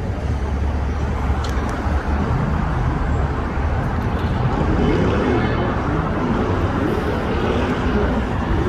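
Steady city traffic noise with a heavy low rumble, and a couple of light clicks about a second and a half in.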